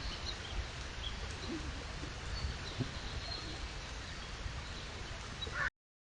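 Steady outdoor background hiss from a trail camera, with a few faint, brief bird calls. It cuts off suddenly near the end.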